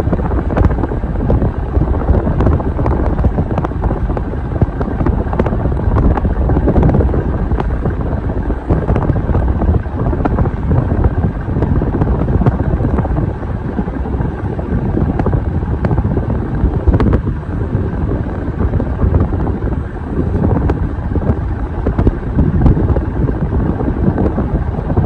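52-inch Hampton Bay Cameron II Plus ceiling fan running, the air thrown by its blades buffeting the microphone in a loud, steady rumbling whoosh.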